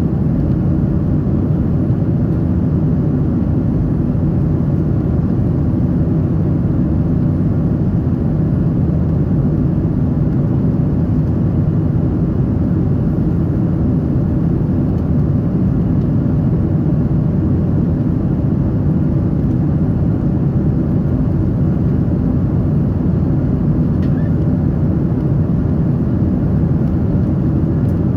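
Steady cabin noise inside a Boeing 777-300 airliner: an even, unchanging rumble of engines and airflow.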